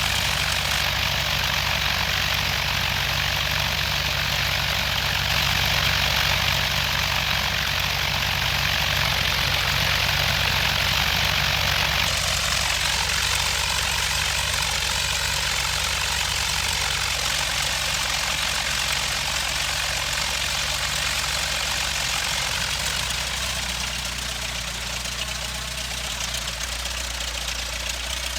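Cessna 152's four-cylinder Lycoming engine and propeller running steadily, with a rushing noise over it that eases off about twelve seconds in.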